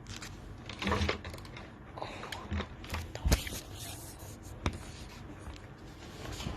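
A handful of short scrapes and clicks, like objects being handled, with the loudest a sharp knock about three seconds in.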